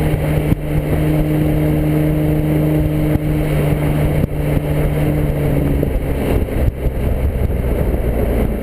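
Infiniti G35 coupe's V6 engine through an ARK GRiP aftermarket exhaust, running at a steady engine speed with a constant exhaust note that eases off about six seconds in.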